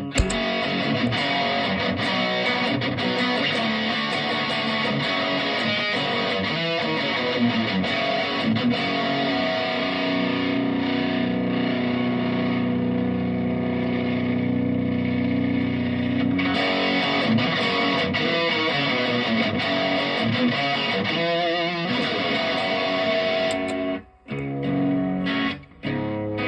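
Electric guitar with a P90 pickup played through a Behringer Centaur overdrive pedal (a Klon Centaur clone) into a Supro Blues King valve amp: driven riffs and chords, with a long ringing chord in the middle and two short stops near the end.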